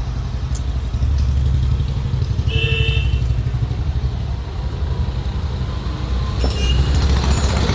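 Toyota Etios engine running steadily with a low, rhythmic throb, a little louder from about a second in. A short high-pitched beep sounds about two and a half seconds in.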